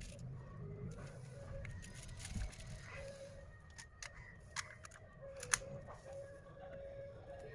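Scattered sharp clicks and light taps of small tools and phone parts being handled during smartphone reassembly, over a low background rumble and a faint steady hum.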